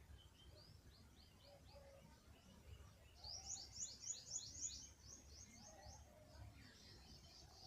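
A small songbird singing faintly: series of quick high chirps that run together into a rapid trill about three seconds in, then slow and fade, with faint lower calls from other birds behind.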